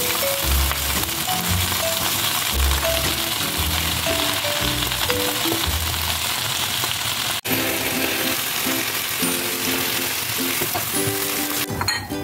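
Leafy greens frying in hot oil in a frying pan, a steady sizzle, with background music and a bass beat playing over it. The sound drops out for an instant about seven seconds in.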